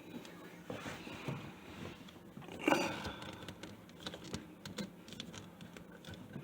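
Small clicks and knocks of plastic sink-drain parts being handled and worked loose under a bathroom sink, with one louder scraping sound a little under three seconds in.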